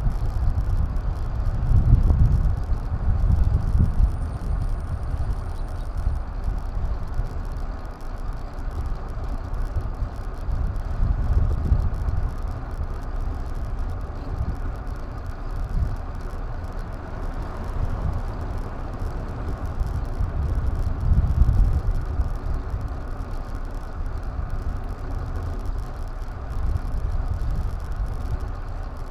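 Wind buffeting a helmet- or bike-mounted action camera's microphone during a ride: a gusty low rumble that swells and fades every few seconds, over a steady rush of road noise.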